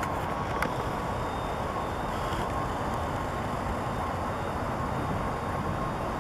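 Steady low rumble of outdoor background noise with a faint steady hum, and one small click about half a second in.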